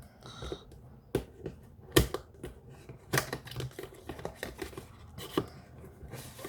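Smart bulb's cardboard retail box being opened and its contents handled: irregular clicks, taps and rustles of card and paper, the sharpest about two and three seconds in.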